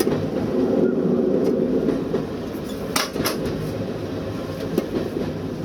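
Train running along the line, heard from the driving cab: a steady rumble with a quick pair of clicks about three seconds in as the wheels cross a rail joint.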